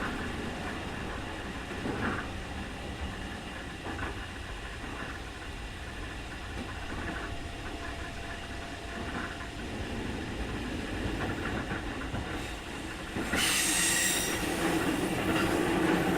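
Keikyu 2000 series electric train heard from inside the car at speed: a steady rumble of wheels on rail with a couple of faint rail-joint knocks and no motor whine. About 13 seconds in, a sudden, louder rushing hiss with high ringing tones comes in and stays.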